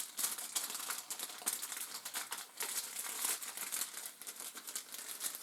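Packaging crinkling irregularly as the charging cable is handled and unwrapped.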